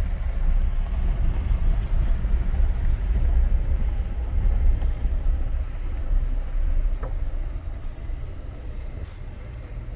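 Low, steady rumble of a Jeep driving slowly, easing off a little over the last few seconds.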